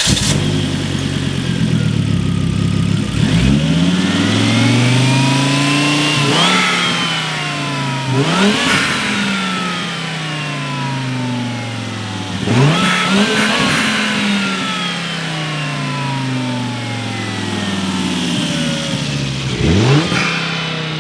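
Turbocharged Volvo S60 engine with a big turbo upgrade idling and being revved about four times, each rev rising sharply and settling back, with a high whine that winds slowly down after each rev. It runs cleanly on a new throttle body gasket, its vacuum leak fixed, and 'sounded great' when revved.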